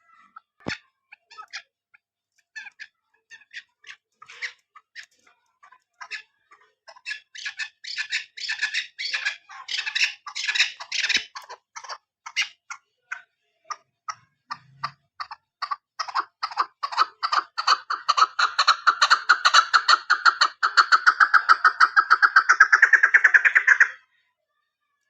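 Female chukar partridge calling: a series of short clucking notes, sparse at first, that speeds up into a rapid, louder run of notes and stops abruptly near the end.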